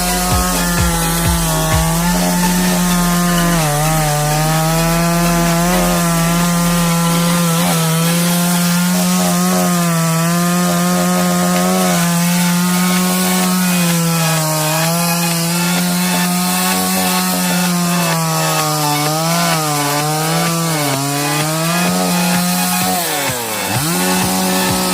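Two-stroke chainsaw running at high revs and cutting through a fallen, rotten trunk. Its pitch sags again and again as the chain bogs in the cut and then picks back up. Near the end the engine drops sharply and revs back up.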